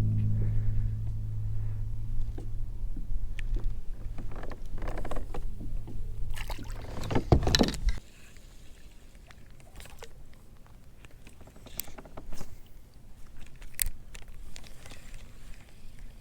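A motor hums steadily at a low pitch and stops abruptly about eight seconds in, leaving only scattered faint clicks and knocks.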